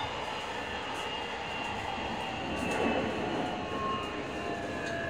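Inside a Nishitetsu 9000 series electric train standing at a station: a steady hum of the car's on-board equipment, with several faint steady whining tones.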